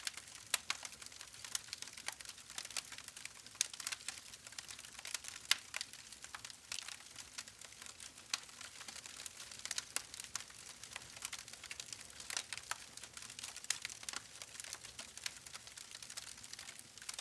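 Campfire crackling: irregular sharp snaps and pops, several a second, over a soft hiss, with a few louder snaps scattered through.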